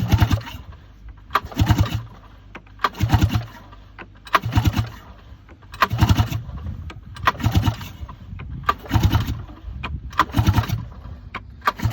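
Flooded Arctic Cat M8000 two-stroke snowmobile engine being pull-started over and over, about nine quick rope pulls a second and a half apart, each turning the engine over in a short burst of rapid chugs without it catching.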